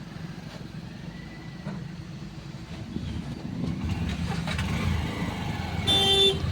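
Motor vehicle rumble that grows louder from about halfway through, then one short, loud horn blast near the end.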